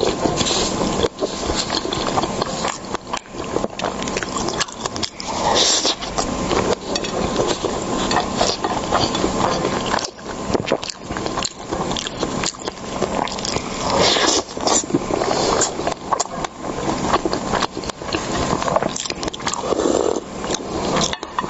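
Close-miked eating sounds, chewing and mouth noises over seafood, as a dense, uneven run of small wet clicks and crackles.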